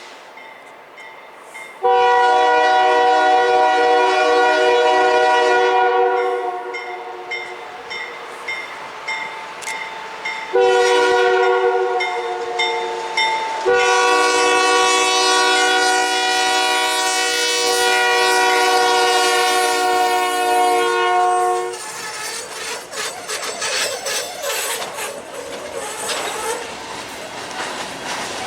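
Multi-chime horn of a CN freight's lead GE C40-8 locomotive sounding a long blast, then a short one, then a long held blast, the end of a grade-crossing signal. After it the train rolls past with rumble and wheel clatter.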